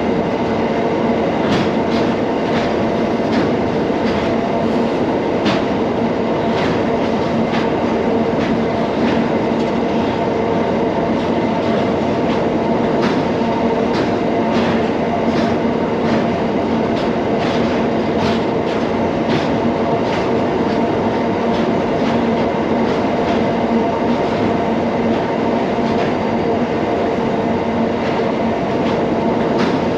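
Wagons of a narrow-gauge freight train rolling steadily across a steel truss bridge: a continuous rumble with sharp wheel clicks over rail joints one to two times a second, over a steady pitched hum.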